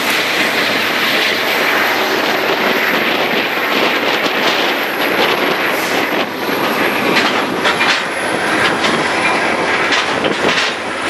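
El Chepe (Chihuahua–Pacific Railway) passenger train running over the rails, heard from on board: a loud, steady rumble and rush of wheels and cars. From about four seconds in, a scatter of short clicks and knocks from the wheels on the track joins it.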